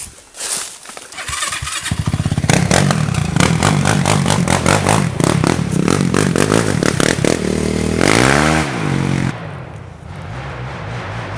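Four-wheeler (ATV) engine that comes in abruptly about two seconds in and runs hard at high revs. Its pitch swings up and down around eight seconds, then it drops back to a quieter, lower run.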